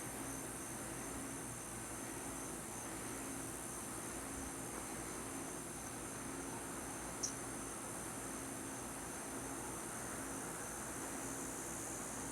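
Crickets chirping in a steady, unbroken high trill, with a single sharp click about seven seconds in.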